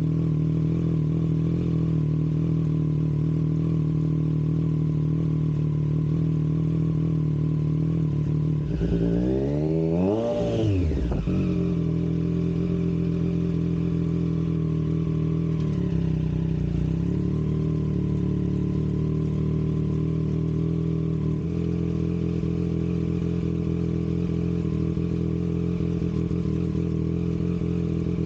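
Motorcycle engine running steadily at idle, left running to simulate riding, with one brief rev about nine seconds in that rises and falls back within about two seconds.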